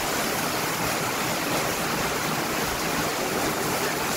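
Heavy rain falling, a steady even hiss of big drops.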